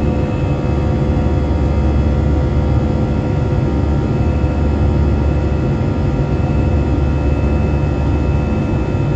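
Airbus A320 jet engines running, heard inside the passenger cabin: a loud, steady low rumble with several steady whining tones on top.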